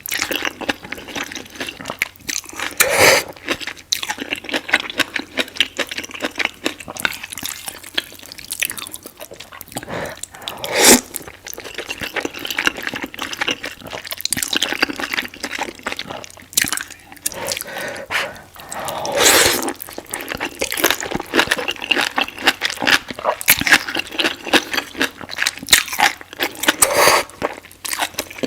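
Close-miked ASMR eating of noodles: wet chewing and smacking with many small clicks, broken by a few louder, longer slurps.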